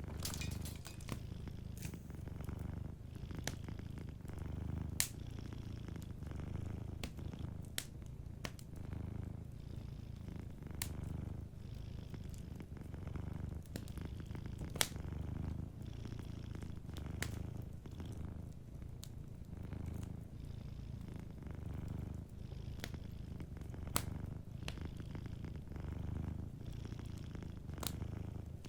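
Domestic cat purring steadily, a low rumble swelling and easing about every two seconds with its breathing. Over it, a wood fire crackles with scattered sharp pops, a few of them louder.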